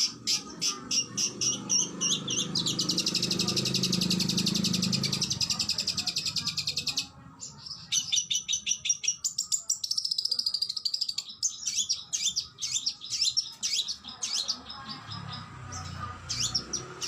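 Oriental magpie-robin (kacer) singing: a run of sharp repeated notes, then a long, very fast trill for several seconds, a short break, then a string of varied whistled phrases.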